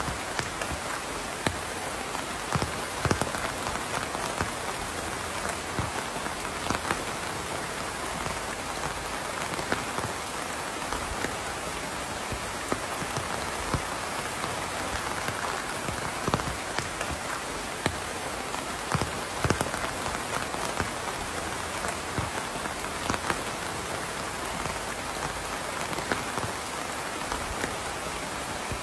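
Steady rain falling on a surface, an even hiss with many individual drops pattering and plinking through it.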